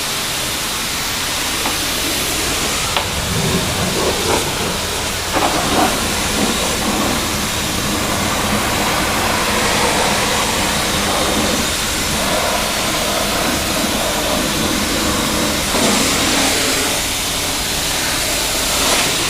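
Car wash water spray hissing steadily against a car.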